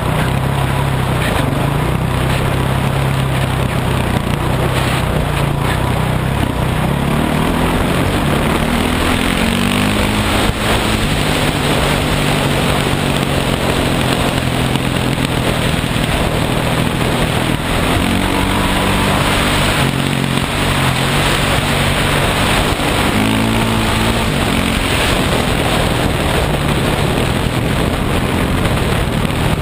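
Dirt bike engine running while riding, its pitch rising and falling several times as the throttle opens and closes, over a steady rushing noise.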